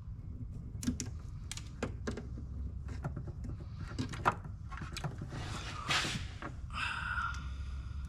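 Hand work with tools and parts: scattered sharp clicks and knocks over a steady low rumble, a short hiss about five and a half seconds in, and a brief buzz near seven seconds.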